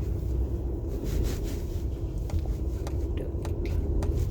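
Car cabin noise: a steady low rumble of engine and road noise with a faint hum, and a few light clicks in the second half.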